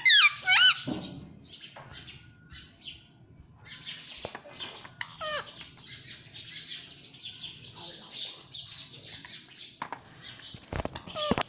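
Indian ringneck parrot chirping and chattering, with loud whistled calls that waver in pitch in the first second and again near the end.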